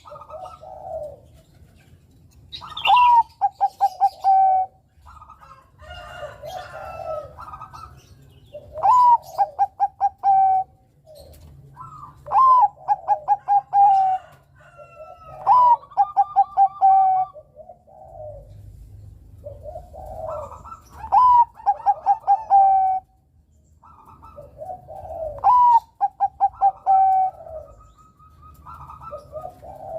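Bangkok-type perkutut (zebra dove) singing its cooing song, phrase after phrase about every three to four seconds. Each phrase is a rising opening note followed by a quick run of short, clipped coos. Softer, lower calls fill the gaps between phrases.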